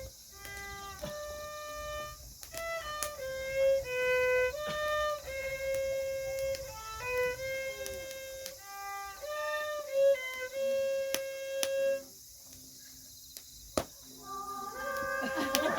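A single instrument playing a simple melody one held note at a time. It breaks off for about two seconds around twelve seconds in, then carries on.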